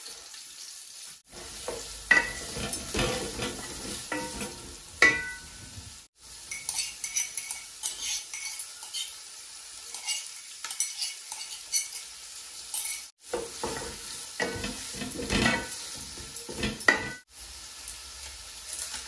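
Sliced onions sizzling in hot oil in a metal pot, with a spoon stirring and scraping against the pot. The sound cuts out briefly a few times.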